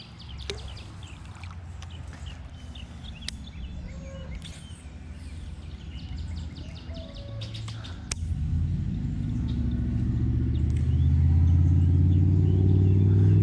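Small birds chirping, with a few sharp clicks. About eight seconds in, a motor vehicle's engine comes in as a low hum, grows steadily louder and drowns out the birds.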